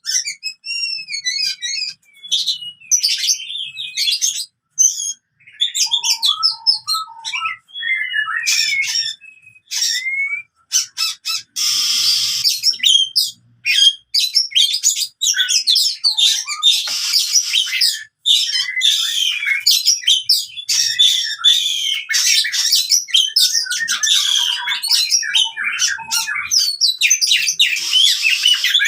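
Oriental magpie-robin (kacer) singing in its aggressive fighting style: a rapid, nearly continuous run of varied whistles, rising and falling, mixed with harsh chattering. A rasping stretch comes about twelve seconds in.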